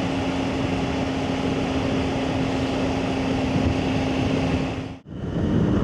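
Motorcycle engine running steadily at cruising speed, with wind and road noise, heard from the rider's helmet microphone; the sound cuts out abruptly about five seconds in and comes back.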